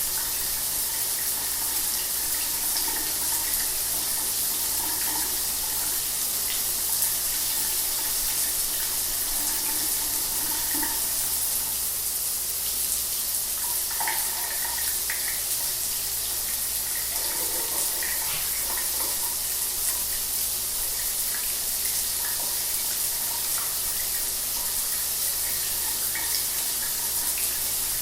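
Shower water running steadily, a constant hiss of spray with small splashes and patters scattered through it.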